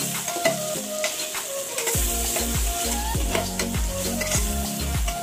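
Onions, whole spices and ginger-garlic paste sizzling in hot oil in an aluminium pressure cooker, stirred with a metal ladle that scrapes and knocks against the pot many times.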